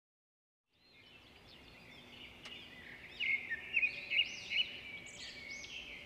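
Wild birds singing and calling in the woods: a chorus of quick, repeated arching chirps that fades in about a second in and grows louder toward the middle.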